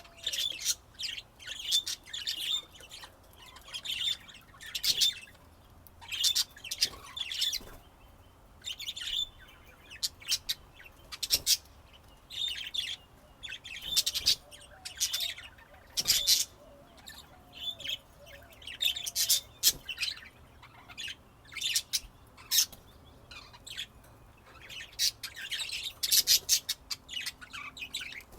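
Budgerigars chirping and chattering in short, irregular high-pitched bursts, one or two a second.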